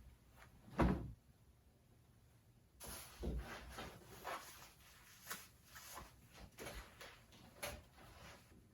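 Handling noises: one loud thump about a second in, then a string of irregular knocks and clatter.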